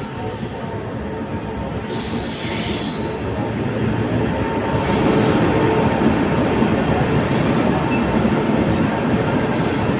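Train running on the rails: a steady rumble that grows louder, broken by several brief high wheel screeches every couple of seconds.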